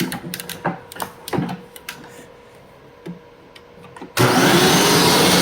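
A few light plastic clicks and knocks, then, about four seconds in, the Hoover WindTunnel Plus upright vacuum's motor switches on and runs loud and steady with a whine, ready for hose and upholstery-tool use.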